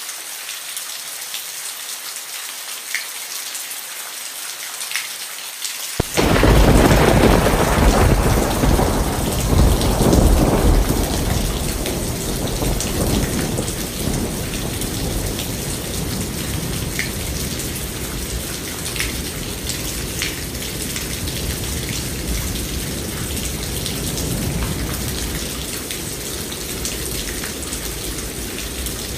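Steady rain falling, then about six seconds in a thunderclap breaks out suddenly and is loudest for a few seconds before rolling on as a low rumble that fades over the next fifteen seconds or so, with the rain continuing underneath.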